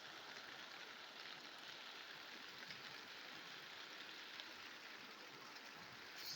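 Steady rain falling, a faint even hiss with scattered drop ticks, and a brief sharp click near the end.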